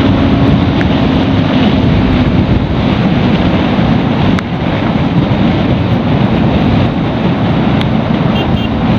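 Strong wind rushing over the microphone of a moving Bajaj Pulsar NS200, with the motorcycle's single-cylinder engine running underneath; the engine's steady note fades into the wind about two and a half seconds in.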